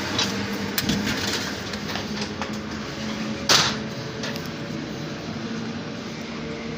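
EN57 electric multiple unit: a steady electric hum with scattered clicks and knocks, and one short, loud burst of noise about three and a half seconds in.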